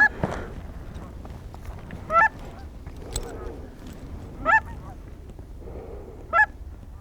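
Goose call blown in single short honks, four of them spaced about two seconds apart, calling to geese.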